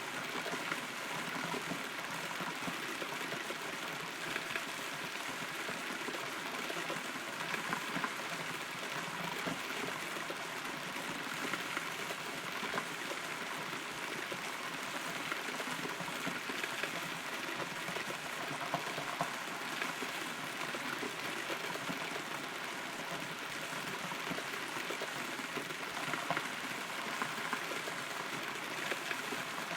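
Steady rain falling on a hollow rotten tree, heard from inside the trunk: an even hiss with scattered louder drops.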